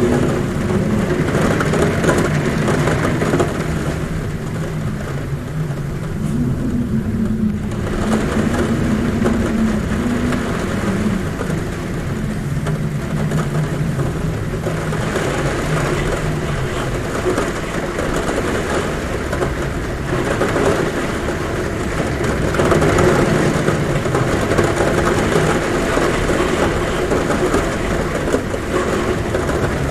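Heavy rain drumming on a roof with wind humming at a window, a low droning tone that wavers in pitch. The rain noise eases for a few seconds early on and then swells back up.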